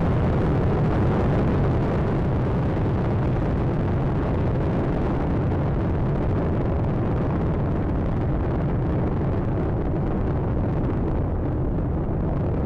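Space Shuttle Atlantis climbing after liftoff: a steady, deep rumbling roar from its solid rocket boosters and three main engines, with the higher hiss fading a little near the end.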